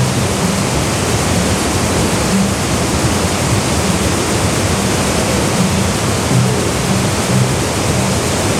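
Waterfall pouring steadily: a dense, unbroken rush of falling water with a low churning rumble underneath.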